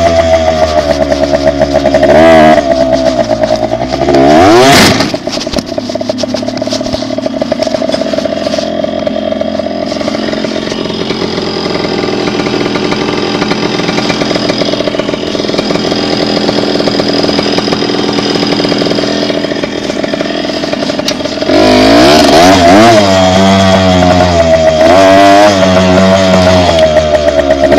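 Dirt bike engine running while being ridden. The revs climb and drop a few times in the first five seconds, then the engine runs steadier and quieter for about fifteen seconds. It picks up again, louder, with the revs rising and falling near the end.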